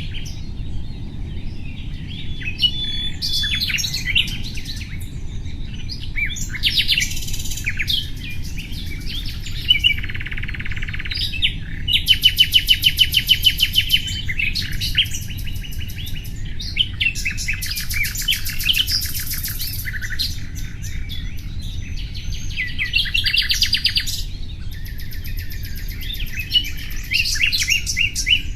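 Nightingale singing: a string of varied phrases with short pauses between them, including fast runs of repeated notes and trills, the loudest a rapid repeated-note burst about halfway through. A steady low rumble runs underneath.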